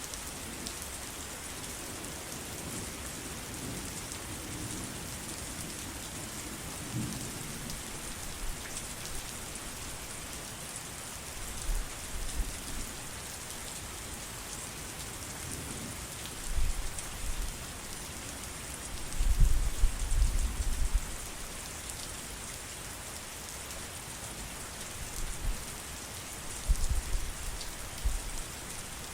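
Steady heavy rain falling, a constant hiss, broken by several low rumbles of thunder, the loudest about two-thirds of the way through.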